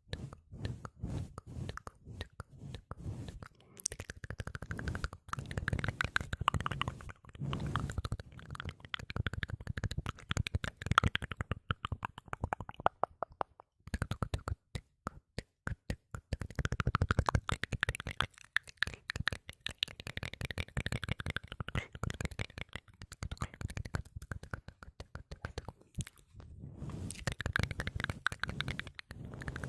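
Close-miked ASMR mouth sounds: quick, wet clicks and smacks of the tongue and lips, with the mouth's shape shifting the tone as they go and a couple of short pauses.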